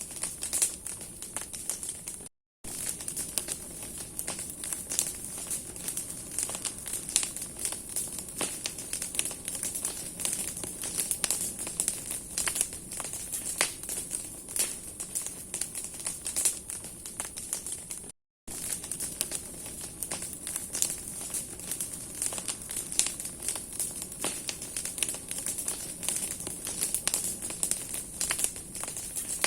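Big bonfire of burning branches crackling and popping steadily, a dense run of sharp snaps from the burning twigs and wood over a hiss of flame.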